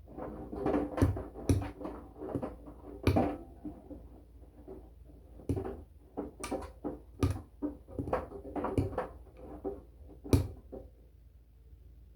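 Washing machine drum turning a load of laundry, the wet clothes dropping with an irregular series of soft thuds and clunks that stop about a second before the end.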